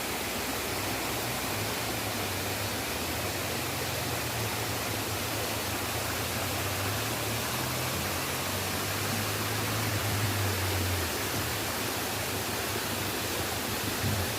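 Steady rushing of a waterfall, Bigar waterfall, with a low rumble under it that stops about eleven seconds in.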